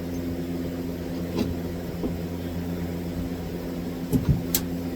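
Steady low machine hum, with a few short knocks about a second in and again near the end.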